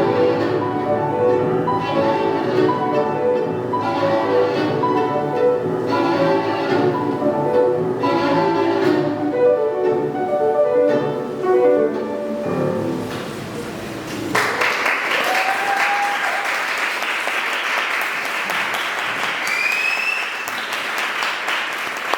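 Violin with piano accompaniment playing the final bars of a classical piece, which end just over halfway through. After a brief pause, an audience breaks into steady applause.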